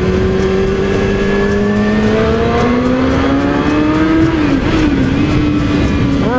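Yamaha YZF600R sport bike's inline-four engine running under way, holding a steady note, then rising gradually as it accelerates. The pitch drops back about four seconds in and climbs again sharply near the end.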